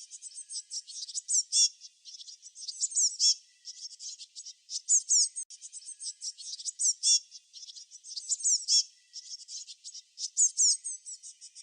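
Songbirds chirping: rapid high-pitched chirps and short falling whistled notes, swelling into a louder phrase about every two seconds.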